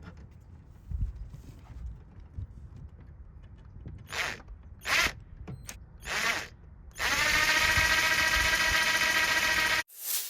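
Power drill running at one steady speed for about three seconds and stopping abruptly, after a few short, scratchy sounds of work on the glove box.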